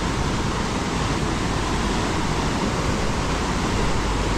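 Water rushing steadily through a natural dam break, a loud even roar of falling water with no pauses.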